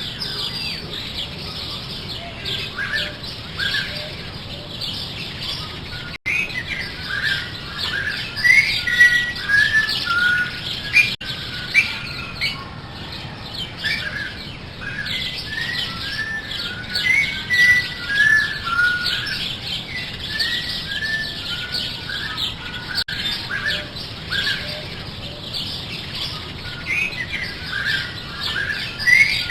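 Many small birds chirping and tweeting together, a dense run of short, overlapping high calls, over a steady background hiss.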